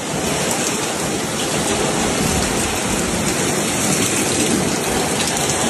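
Heavy rain pouring steadily during a storm: a loud, even rush that starts abruptly.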